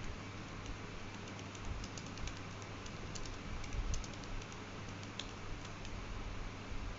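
A run of light, irregular clicks over a steady low hum and hiss, thickest in the middle of the stretch.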